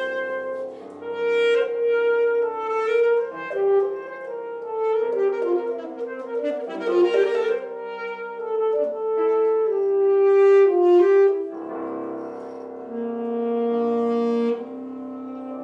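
Alto saxophone playing a melody of held and moving notes over piano accompaniment.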